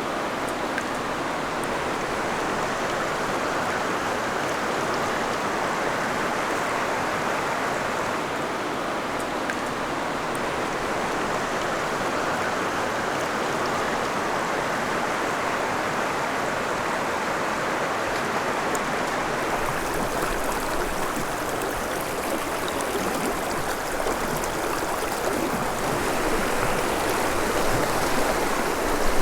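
Steady rushing of a canyon creek, running water without a break; a little deeper rumble comes in about two-thirds of the way through.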